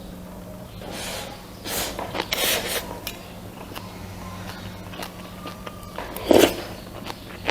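Close-miked eating sounds: clusters of short, noisy mouth and food sounds from a person eating rice and pork soup, with the loudest burst about six seconds in, over a steady low hum.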